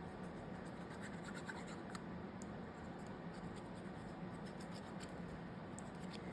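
Faint scratching and small clicks of paper and craft pieces being handled and slid on a desk.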